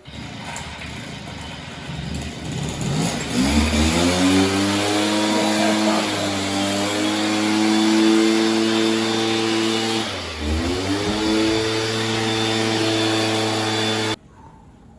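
An engine revs up about three seconds in and runs at a steady pitch over a rushing hiss. About ten seconds in it drops briefly and climbs again. The sound cuts off abruptly near the end.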